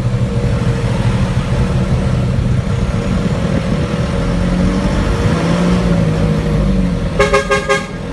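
Motor vehicle engine running steadily, its pitch drifting slightly up and down. About seven seconds in, a vehicle horn gives a rapid string of short beeps.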